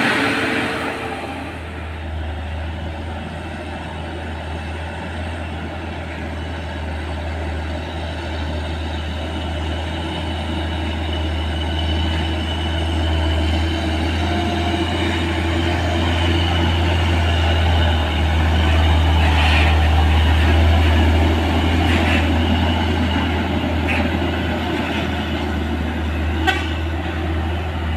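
Heavy diesel truck engine labouring on a steep uphill climb with a steady low drone. It grows louder over the first twenty seconds or so, then eases slightly, with a few brief sharp clicks near the end.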